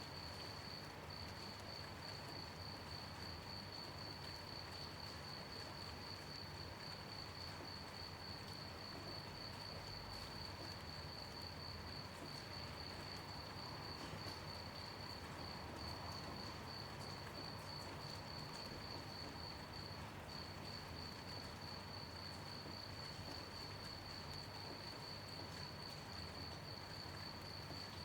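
Crickets chirping in a continuous, rapidly pulsing high trill, over a soft even hiss of light rain.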